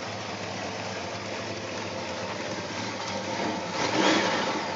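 Supercharged Studebaker 289 V8 running at idle, a steady engine note under a rushing hiss, with a brief louder swell about three and a half seconds in.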